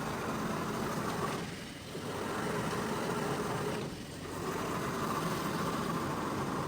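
A rug-cleaning machine's motor running steadily, with two brief dips about two and four seconds in.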